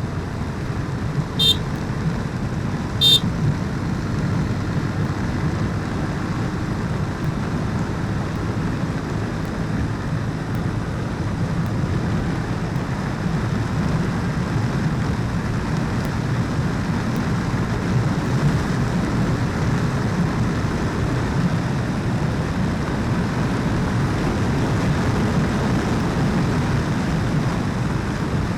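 Motorcycle riding along a road, its engine and the rushing wind making a steady rumble. Two short horn beeps sound about a second and a half apart near the start.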